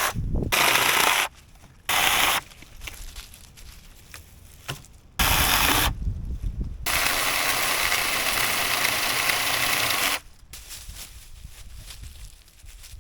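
Electric chainsaw cutting poles in several short bursts, each starting and stopping abruptly, with a longer cut of about three seconds in the second half.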